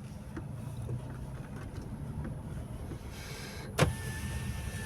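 A car driving over a rough road: steady low engine and road rumble with small rattles, and one sharp knock a little under four seconds in.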